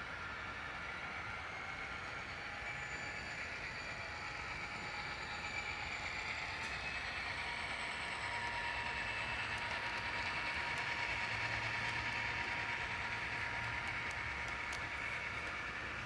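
HO-scale model train running along the track: a steady rush of wheels and motor with a faint whine, louder about two-thirds of the way through as it comes closest, and a few light clicks near the end.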